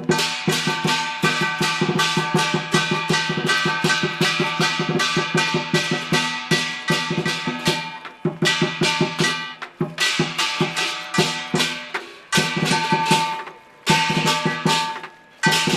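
Chinese lion dance percussion: a drum and cymbals struck in a fast, driving rhythm, the cymbals ringing on between strokes. The beat breaks off briefly a few times in the second half.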